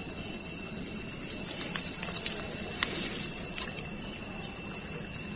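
Forest insect chorus: a steady, high-pitched trill of crickets, over a low, even noise.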